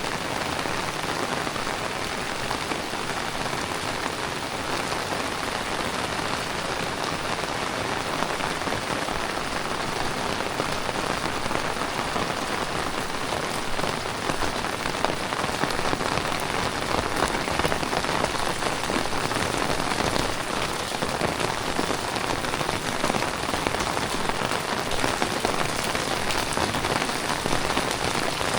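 Heavy tropical rain falling steadily, a dense even hiss of drops, slightly louder in the second half.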